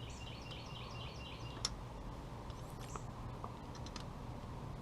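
Faint, scattered light clicks and taps of hands working the oil pressure hose fitting onto the engine, over low background hiss, with a short run of faint, evenly repeated high chirps near the start.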